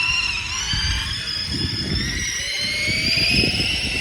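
Stacyc electric bike's motor whining as it rides along, the whine rising slowly in pitch as it speeds up, with wind buffeting the microphone underneath.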